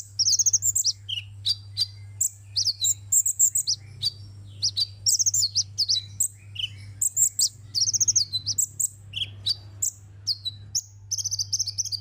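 Sunbird singing: a busy run of rapid high-pitched chirps and fast trills with no pauses, over a faint steady low hum.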